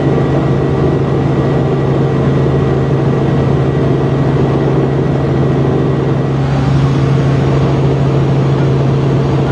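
Helicopter running, heard from inside the cabin: a loud, steady drone of engine and rotor with a strong low hum and no change in pitch.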